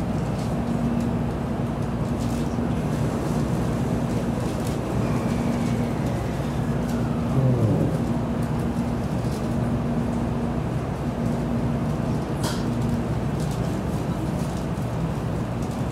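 Running noise of an N700-series Kyushu Shinkansen train heard inside the passenger car: a steady rumble with an on-and-off hum, a whine falling in pitch a few seconds in, and a single low thump about halfway through.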